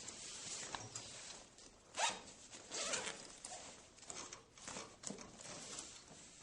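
A zipper being worked, with quiet rustling: several short scratchy pulls across a few seconds.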